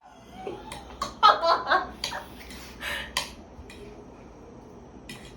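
Dishes and cutlery clattering: a string of sharp clinks and knocks, busiest in the first couple of seconds.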